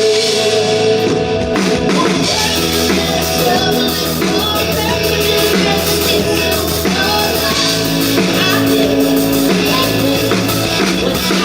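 Live band playing a rock song through an instrumental stretch between sung lines.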